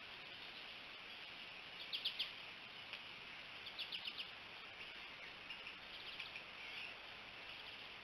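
A bird giving quick runs of three or four high chip notes: loudest about two seconds in, again near four seconds, and faintly near six, over a steady high hiss.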